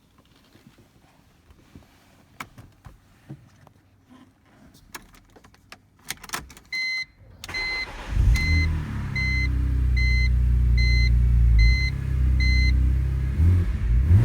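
Scattered clicks and knocks, then a warning chime beeping about every 0.7 s while the BMW Z4 M Coupe's 3.2-litre S54 straight-six starts about eight seconds in. The engine settles into a steady, loud cold-start high idle.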